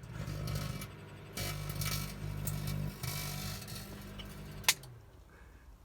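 Microwave oven running with its steady transformer hum while arcing plasma inside crackles and fizzes. Near the end a single sharp click, and the hum winds down as the oven stops.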